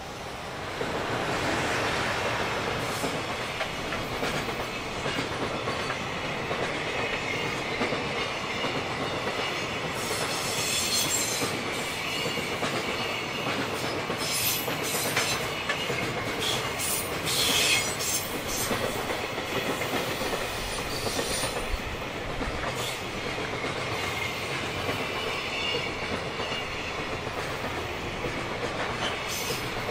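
A JR Freight EF210 electric locomotive hauling a container freight train passes close by, growing loud in the first second or two, followed by a long run of container flat wagons with a steady rumble and clatter of wheels over the rails. Sharper clanks and high-pitched wheel squeals come through in the middle.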